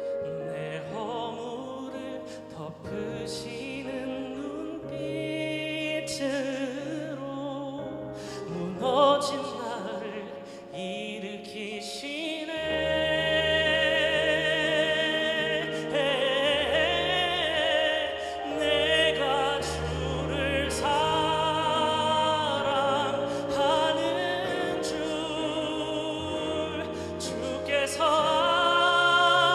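A solo voice singing a sacred song in a classical style with vibrato over a sustained instrumental accompaniment. The first stretch is quieter, with the accompaniment to the fore, and the voice comes in strongly about halfway through on long held notes.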